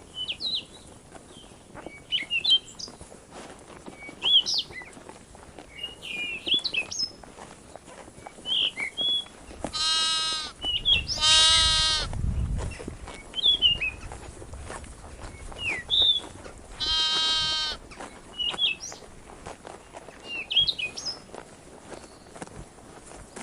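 A bleating farm animal, a sheep or goat kind, calls three times with quavering bleats: twice in quick succession near the middle, then once more a few seconds later. Small birds chirp in short calls throughout.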